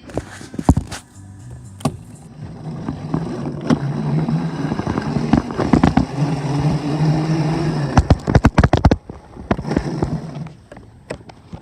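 A dirt bike's motor running and rising slightly in pitch for several seconds before it stops, with sharp knocks and a burst of clattering from the bike or camera being handled.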